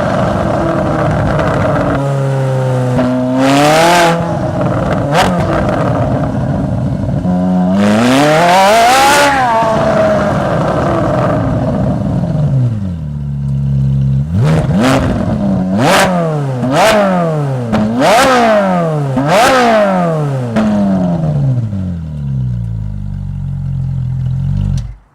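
Ferrari 458 Italia's V8 breathing through an Akrapovic exhaust, idling and being revved: one short blip, then a long rise and fall, then a quick run of about six sharp blips, each dropping back to idle. The sound cuts off suddenly near the end.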